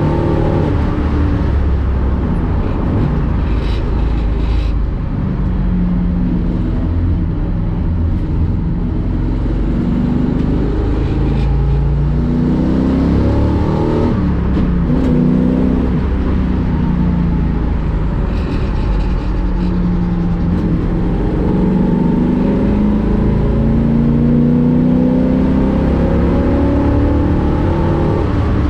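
1965 Ford Mustang race car's V8 engine at racing speed, heard from inside the cockpit. Its pitch climbs under acceleration and drops back repeatedly with gear changes and braking for corners.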